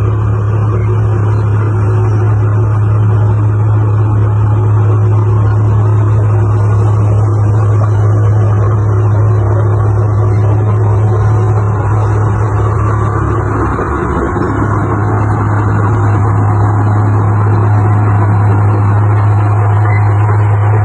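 Heavy diesel engine of earthmoving machinery running steadily with a deep, even hum, dipping slightly once about two-thirds of the way through.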